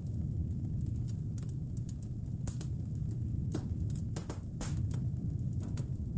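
Wood fire crackling, with sharp irregular pops, over a steady low rumble of wind.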